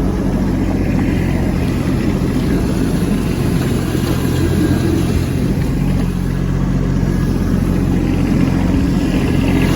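Kubota B2601 compact tractor's three-cylinder diesel engine running steadily, with a slight change in engine speed about six seconds in.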